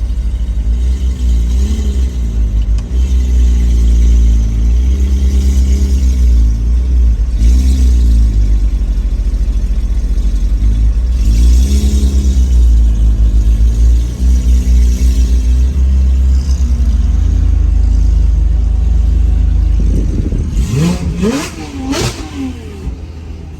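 Car engine under way, the revs climbing and dropping again and again as it accelerates and shifts, over a heavy low rumble. Near the end it goes quieter, with a few quick rising revs.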